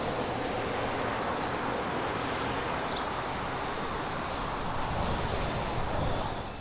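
Steady rushing noise of road traffic, swelling slightly near the end.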